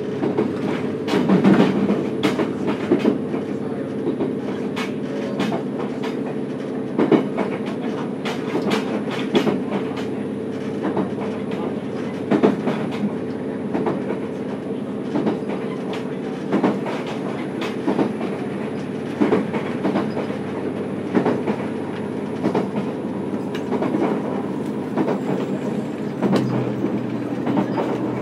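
Running sound of a JR Kyushu YC1-series hybrid diesel railcar heard from above its traction motor: a steady hum from the drive under the car, with rail-joint clicks every second or two. About 26 seconds in, the hum changes to a lower tone.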